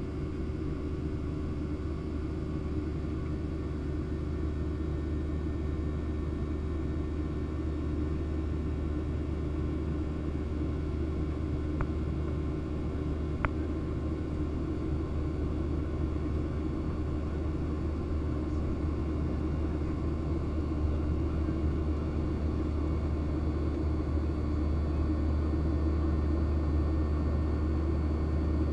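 Steady low drone of a Boeing 737-700 in flight, heard on board, with a constant engine hum over it. It grows slightly louder in the last few seconds, and two faint ticks come about a second and a half apart midway.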